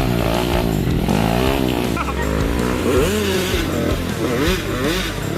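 Trail motorcycle engine revving up and down over and over, its pitch rising and falling about once a second.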